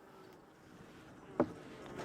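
Faint buzzing of honeybees around the open hive, with one sharp crack or knock a little past the middle.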